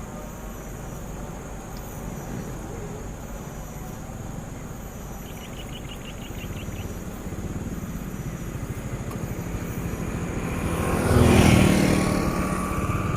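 A motor vehicle's engine running, growing louder to its loudest about eleven seconds in, then easing off a little.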